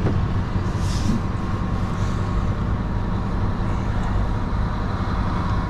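Heavy goods lorry's diesel engine running steadily, heard from inside the cab as the truck drives at low speed.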